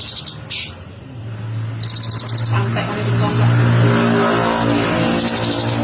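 Kolibri ninja sunbird giving rapid high chirping trills, twice in the first second, again about two seconds in, and faintly near the end. A motor vehicle's engine hum builds from about a second in and becomes the loudest sound in the second half.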